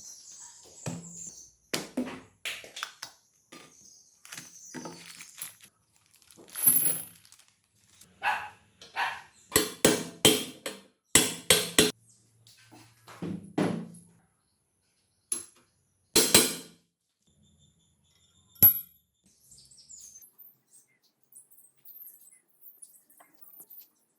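Irregular knocks, clicks and scrapes of hand work with tools and parts, coming thick and fast, then thinning out to a last sharp click and faint rustling in the final third.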